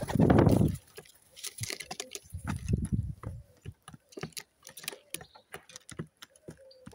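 Pigeons feeding: many quick, irregular taps of beaks pecking at food, with two louder low rushes, one at the start and one about two and a half seconds in.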